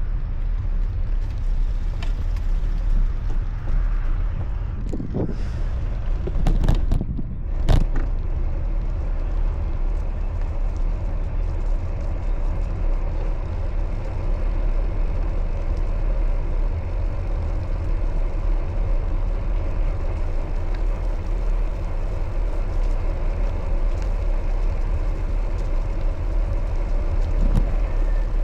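Steady wind and road rumble from riding a bicycle, with a few sharp knocks and rattles between about five and eight seconds in.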